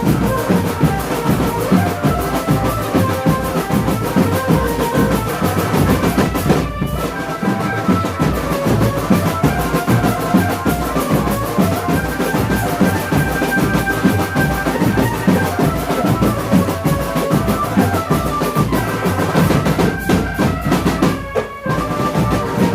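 Marching drum band playing: snare and bass drums beating steadily under a melody on pitched band instruments, with short breaks about seven seconds in and near the end.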